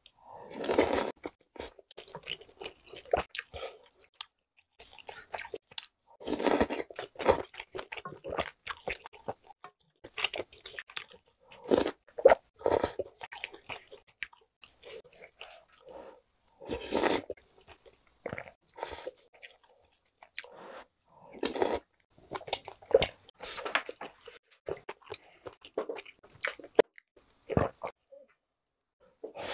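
Close-miked eating of chewy jjolmyeon noodles and soft tofu in spicy soup: wet chewing runs through, with louder bursts every four to six seconds as each mouthful is taken in.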